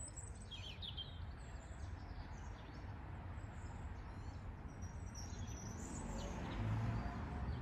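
Birds chirping in short, scattered high calls, a cluster in the first second and more around five to six seconds in, over a steady low outdoor rumble.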